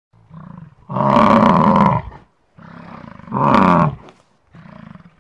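A large animal calling three times, each loud call led by a quieter one.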